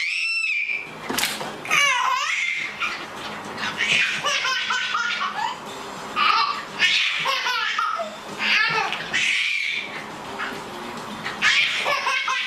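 A baby laughing and squealing in repeated high-pitched bursts.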